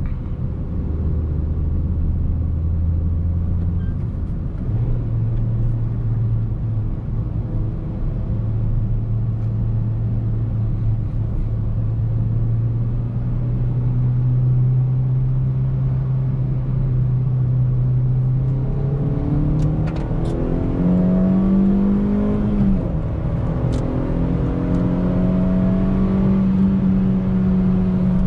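2008 Suzuki Swift Sport ZC31's 1.6-litre VVT four-cylinder engine pulling the car along. Its note steps up in pitch about four seconds in and climbs slowly, then rises higher near the end with a short dip before holding steady.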